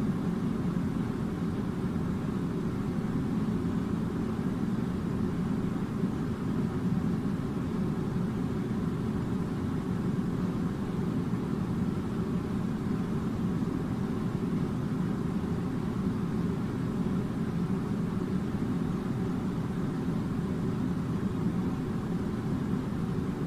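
Air conditioner running with a steady low hum and rumble, unchanging throughout, with a faint steady tone above it.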